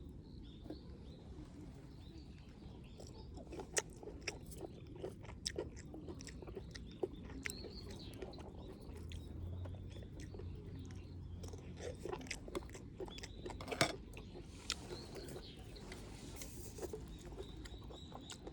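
Close-up eating sounds: chewing and biting, with many small sharp clicks scattered through.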